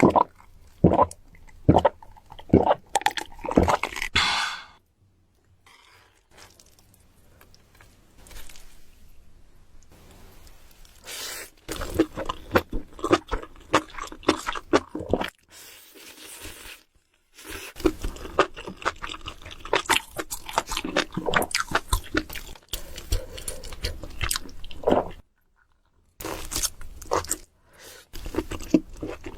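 Close-up eating sounds: a person crunching and chewing food with wet clicks and snaps, in bursts, with a quieter pause for several seconds early on.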